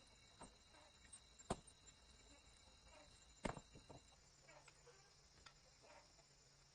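Near-silent background broken by sharp clicks or taps: one about a second and a half in, then two close together about three and a half seconds in. A faint steady high tone stops about four seconds in.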